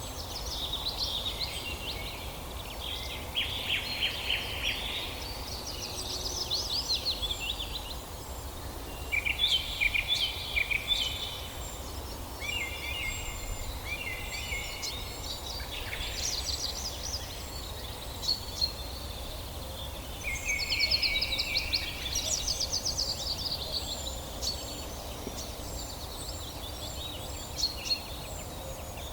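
Several songbirds singing in overlapping phrases of quick trills and repeated notes, over a steady low rumble.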